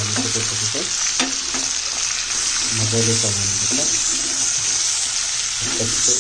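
Pork with freshly added tomatoes, onions and green chillies sizzling steadily in a frying pan, with a few sharp clicks about a second in.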